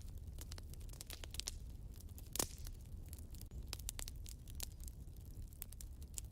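Wood fire crackling in a fireplace: a dense scatter of small snaps with one louder pop about two and a half seconds in, over a low steady rumble.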